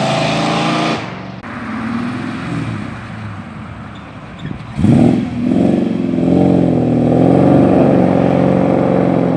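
Car engines running as cars drive off. About five seconds in, one engine revs up sharply and pulls away, its note rising and falling.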